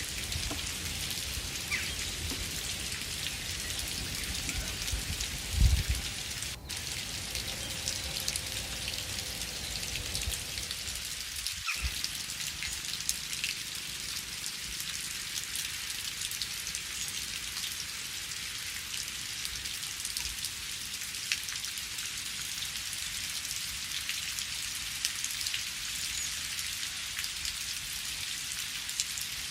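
Steady rain falling in a forest, a dense patter of raindrops, with one brief low thump about six seconds in.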